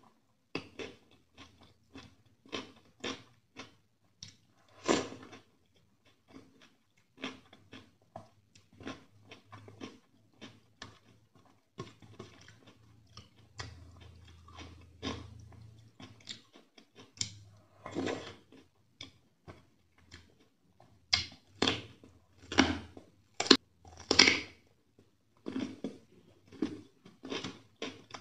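Close-miked chewing of rice and chicken curry: irregular wet mouth smacks and crunches, loudest in a cluster of strong bites near the end.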